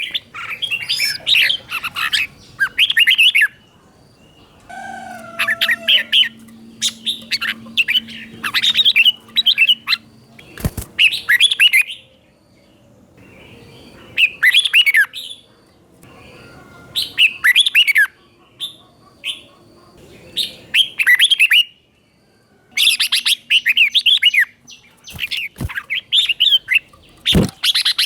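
Red-whiskered bulbul singing: short bursts of quick, warbling, up-and-down notes, repeated phrase after phrase with brief pauses between them. A few sharp clicks cut in, one about ten seconds in and two near the end.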